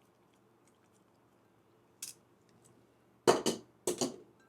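Kitchenware clattering: a small click, then two sharp knocks with a brief ring near the end, as drained elbow macaroni is tipped from a strainer into a mixing bowl.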